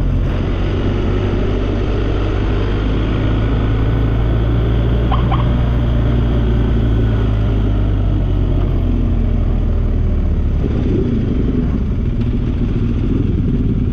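Motorcycle engine running steadily while riding, with wind and road noise. The engine note changes about ten seconds in.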